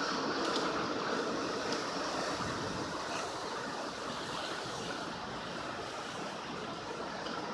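Hurricane storm noise: heavy rain and wind in a steady rush, easing slightly toward the end.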